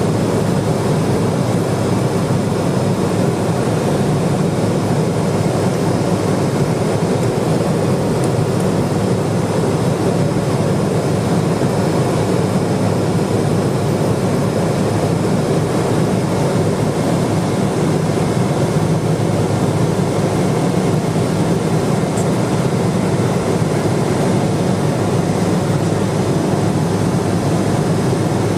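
Steady in-flight cabin noise of a turboprop-converted Cessna 210 Silver Eagle: an even, unchanging drone of engine and airflow with faint high steady tones above it.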